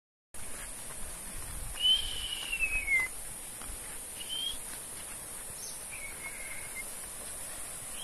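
A bird whistling a few clear notes: a long one that slides down in pitch about two seconds in, then two shorter ones, over a steady high hiss.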